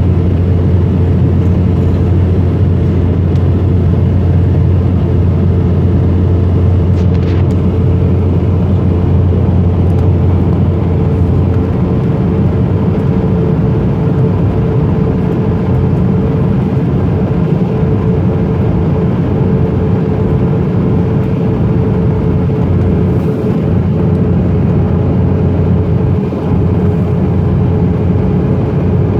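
Embraer ERJ-190 jet engines heard from inside the passenger cabin at high takeoff thrust: a loud, steady roar with a steady hum over it. The low rumble lessens about twelve seconds in.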